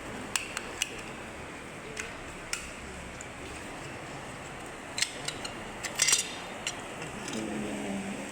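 Sharp clicks and clacks of hard plastic parts, a few single snaps spread out and a quick cluster about six seconds in, as the clear plastic window piece is worked out of a plastic toy pickup's body.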